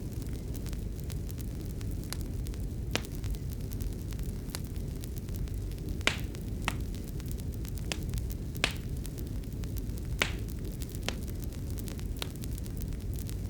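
Fire crackling in a fireplace: a steady low rumble with about a dozen irregular sharp pops, the loudest about six and nine seconds in.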